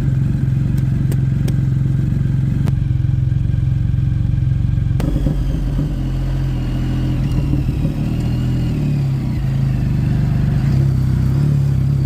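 A motorcycle engine running steadily, with a strong low even note; about five seconds in the sound changes and turns more uneven.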